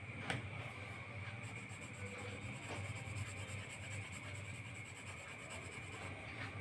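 Drawing on paper: a pen or pencil-type tool rubbing and scratching across the sheet in strokes, faint, with one short click about a third of a second in.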